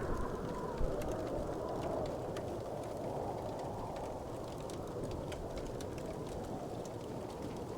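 Wood fire burning in a fireplace: a steady low rush of flame with frequent small crackles and pops, one louder pop a little under a second in.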